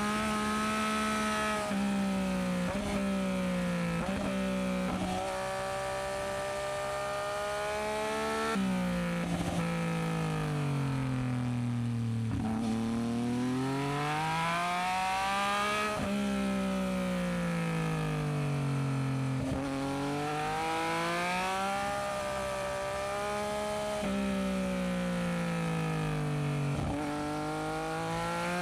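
Yamaha MT-09SP inline-three engine through a Dominator aftermarket exhaust, revving hard while riding. The pitch climbs and drops suddenly at each gear change, then sinks slowly as the bike slows, over and over.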